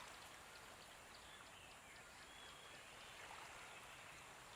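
Near silence: a faint background bed of nature sounds, a soft, even water-like hiss.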